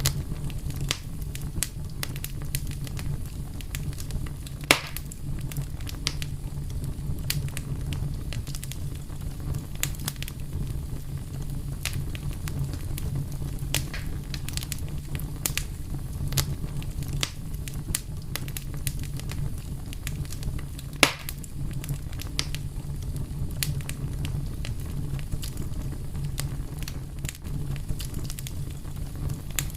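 Wood fire burning steadily with a low rumble and frequent sharp crackles, and two louder pops, about five seconds in and near two-thirds of the way through.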